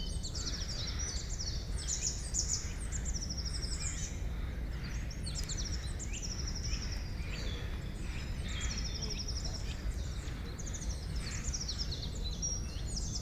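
Forest songbirds chirping and singing over one another in quick runs of repeated high notes, with a steady low rumble underneath.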